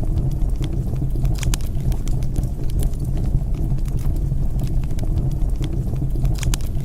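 Wood fire burning with a steady low rumble of flames, broken by scattered sharp crackles and pops, with a cluster of pops about a second and a half in and another near the end.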